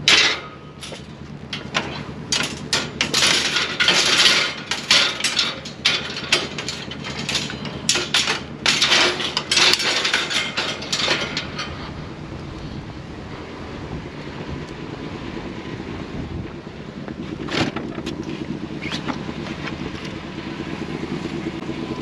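A quick run of knocks and rattles lasting about twelve seconds, then a steady low vehicle hum with a single sharp click near the end.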